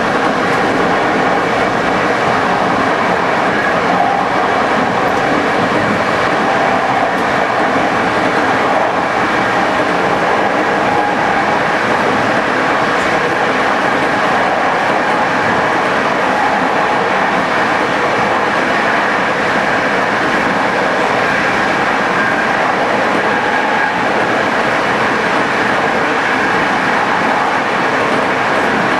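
Locomotive-hauled passenger train running along the line: steady, unbroken rolling noise of wheels on rail, with faint steady high tones over it.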